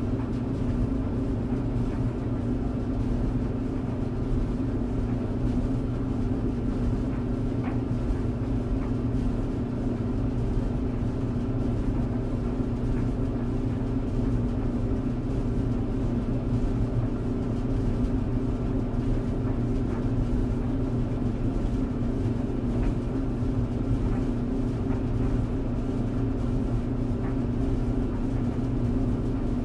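Clothes tumble dryer running steadily: a low rumble with a constant hum, and a few faint ticks now and then.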